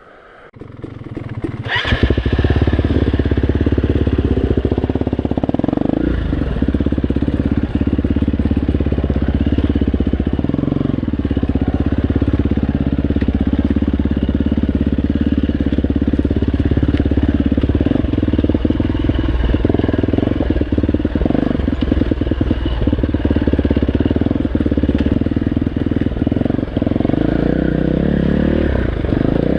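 Dirt bike engine running under load on a rough trail, building up over the first two seconds and then holding steady, with frequent short knocks.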